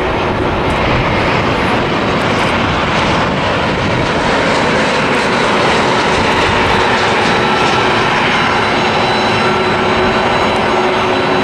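Twin-engine Airbus A320-family airliner coming in to land, its jet engines giving a loud, steady rushing noise with a thin whine in it.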